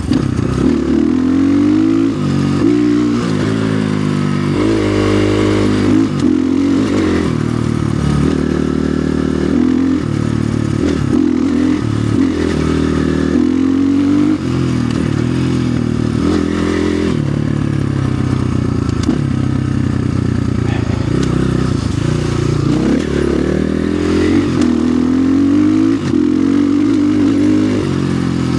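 2025 Orion RXB250XL dirt bike's single-cylinder engine under way, its pitch rising and falling over and over as the throttle is opened and closed and the gears change.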